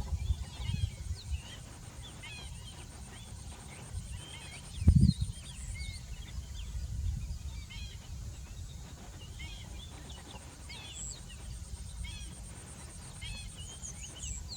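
Many short chirping bird calls throughout, over a steady low rumble, with one thump about five seconds in.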